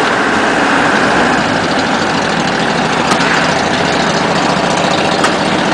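Steady engine and road noise of a moving vehicle, heard from inside a truck's cab.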